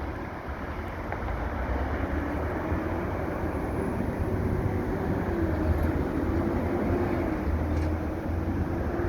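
Steady low rumbling noise with a faint wavering hum, typical of a moving vehicle.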